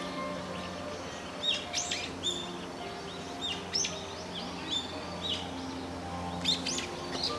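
Small birds chirping in short, sharp calls, scattered irregularly, over soft background music with held low notes.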